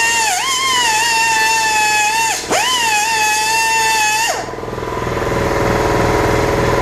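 Angle grinder running with a steady high-pitched whine. Its pitch dips briefly twice, the second time with a click, and the whine cuts off about four seconds in, leaving a low steady rumble.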